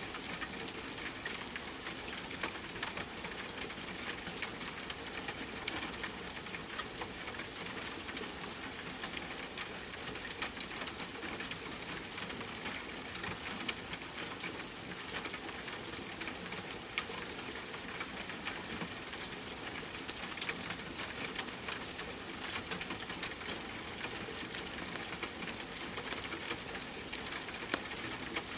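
Steady rain mixed with a crackling wood fire: an even hiss dotted throughout with many small, sharp crackles and pops.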